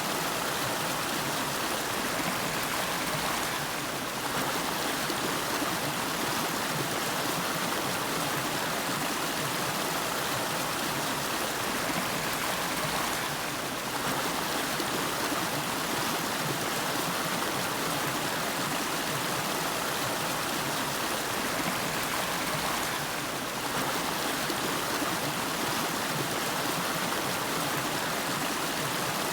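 River water flowing, a steady rushing sound with slight dips in loudness about every ten seconds.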